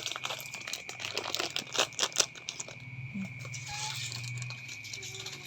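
Cats eating, with irregular crunching and crinkling clicks that are densest in the first two seconds and sparser after.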